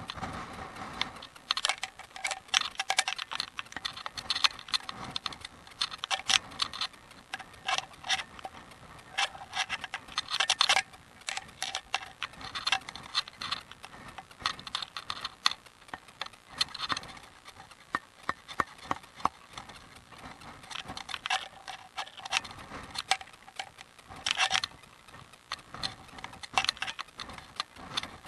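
Bicycle rattling and ticking while being ridden downhill on a rough hill road: a constant scatter of irregular sharp clicks, with louder rattling clusters now and then.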